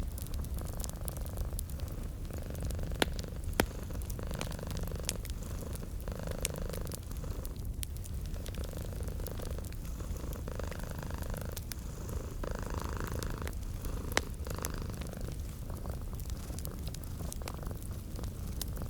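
A cat purring steadily, its low rumble swelling and easing with each breath, over the crackle and sharp pops of a wood fire. The pops are scattered, with a few louder ones at about 3, 3.5 and 14 seconds in.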